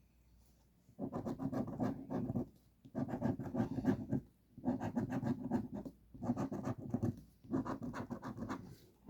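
Scratch-off lottery ticket being scratched off in five quick bouts with short pauses between, starting about a second in.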